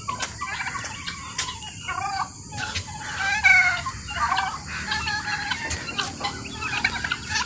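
Several domestic fowl clucking and calling over one another in short, overlapping calls, with sharp clicks mixed in.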